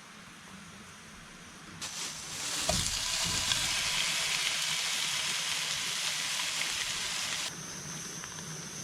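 Steak chunks frying in a hot pan, sizzling hard as their water cooks off before they sear. The sizzle starts suddenly about two seconds in and drops away sharply about a second before the end.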